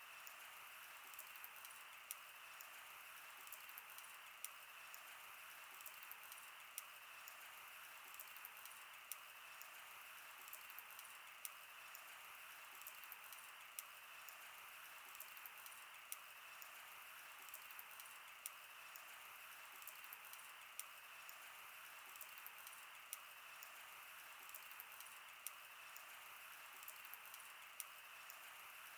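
Wood campfire burning: a steady soft hiss with irregular sharp crackles and pops every second or so.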